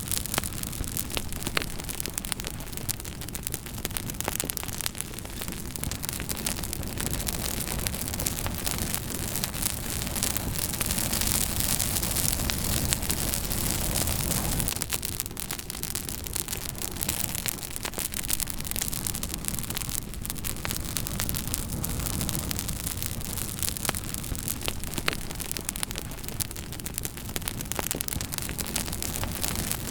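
Campfire burning: steady crackling and hissing with frequent sharp pops, over a low rushing background that swells for a few seconds around the middle.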